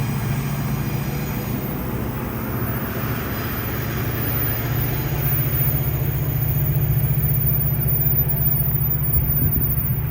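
Train passing, its diesel locomotive giving a steady low rumble that grows louder about halfway through.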